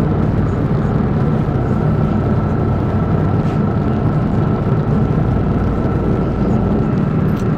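Amphibious river bus's engine running steadily while the bus cruises on the water, a low hum with a thin steady whine above it, heard from inside the cabin.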